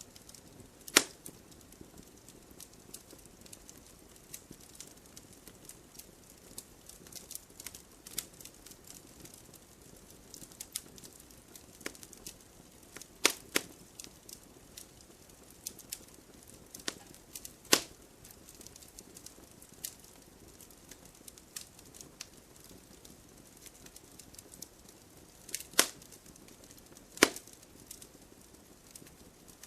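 Wood logs burning in a fireplace: a faint steady hiss with frequent small crackles and about five sharp, loud pops, the first about a second in, two near the middle and two near the end.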